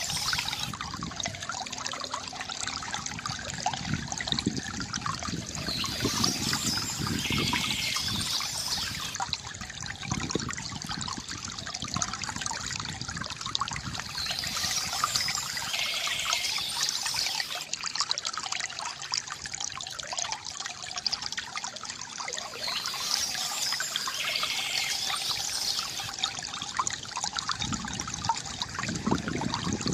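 Bamboo water fountain: water trickling and gurgling steadily.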